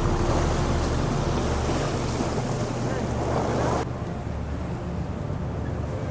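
Dam water rushing, with wind buffeting the microphone and a steady low hum underneath. About four seconds in, the hiss drops away abruptly, leaving a quieter low rumble.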